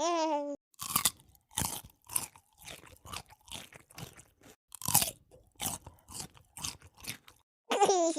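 Crunchy biting and chewing of food, a long run of irregular crisp crunches. A short pitched, giggle-like vocal sound comes at the very start and again near the end.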